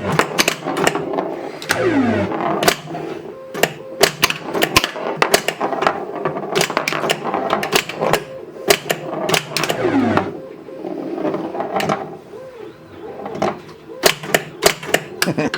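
Irregular mechanical clicks and clacks from the 1980 Williams Scorpion pinball machine's playfield mechanisms, with a few falling electronic tones. Under them runs the steady whir of a 3D printer printing.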